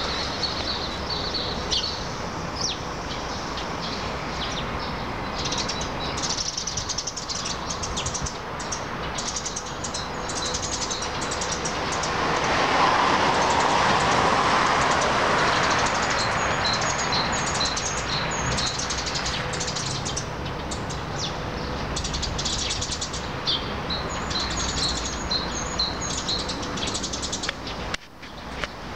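Small birds chirping in short, high, quickly repeated notes. Behind them is a steady rushing noise that swells for a few seconds in the middle.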